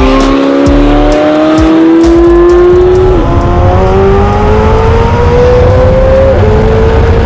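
McLaren 720S twin-turbo V8 with a Novitec exhaust accelerating hard, its pitch rising steadily through the gears. There are two quick upshifts, about three and six seconds in.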